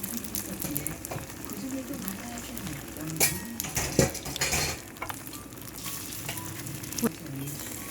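Food sizzling in a frying pan while it is stirred, with a few sharp clinks of a utensil against the pan between about three and five seconds in and once more near the end.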